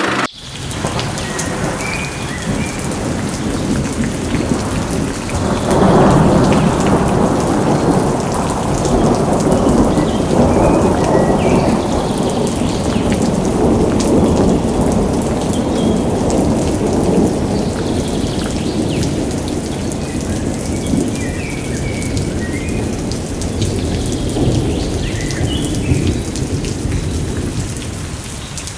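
Heavy rain falling steadily with rolling thunder; the thunder swells about six seconds in and slowly fades.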